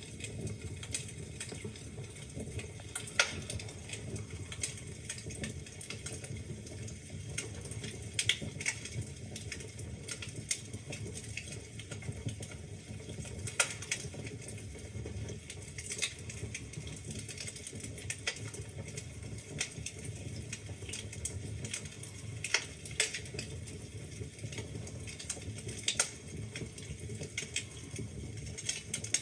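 Wood fire burning in a fireplace: a low steady rumble of the flames with irregular crackles and sharp pops from the burning logs.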